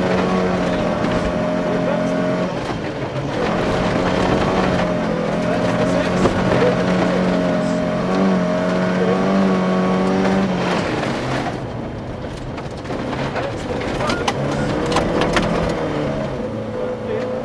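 Volvo 240 rally car's engine pulling hard on a gravel stage, heard from inside the cabin, with sharp ticks of stones striking the car. About twelve seconds in the engine note drops away for a couple of seconds, as on a lift before a corner, then picks up again.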